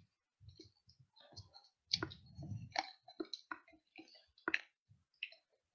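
Someone eating a piece of a hollow chocolate egg close to a headset microphone: a scatter of faint, sharp mouth clicks and crunches, with soft low rumbles of breath or mumbling.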